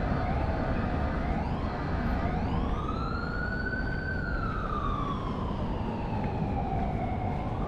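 Emergency vehicle siren in a slow wail: it rises about two seconds in, falls slowly over the next few seconds and begins to rise again near the end, over a steady low rumble.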